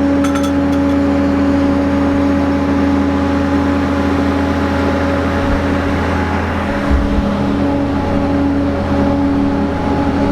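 Engine running steadily at a constant speed: a low drone with a steady hum of several tones above it.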